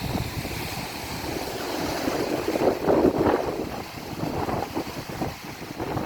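Ocean waves surging and breaking on a beach, loudest about three seconds in, with wind buffeting the microphone.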